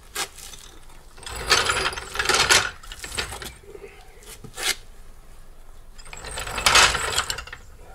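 Metal parts being handled, clattering and rattling in two longer bursts about a second and a half in and again near the end, with a few short clicks between.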